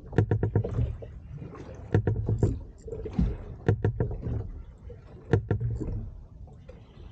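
Small fishing boat on the swell, with rapid clattering knocks in four bursts roughly every one and a half seconds over a low rumble of water and wind.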